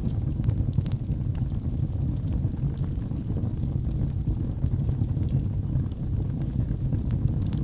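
Wood fire burning in a fireplace: a steady low rumble of flames with light, scattered crackles and snaps.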